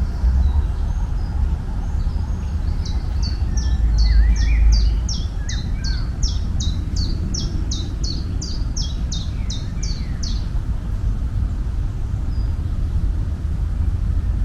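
A songbird singing a long series of high, quick downslurred notes, about three a second for some seven seconds, with a few fainter lower chirps near the start. A steady low rumble runs underneath throughout.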